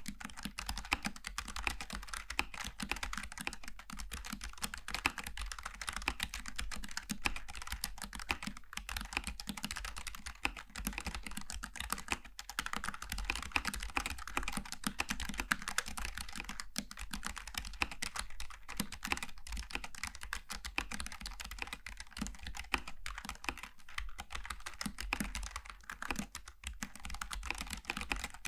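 Continuous fast typing on a Logitech G915 TKL low-profile mechanical keyboard with GL Tactile switches: a dense, uneven stream of light key clacks.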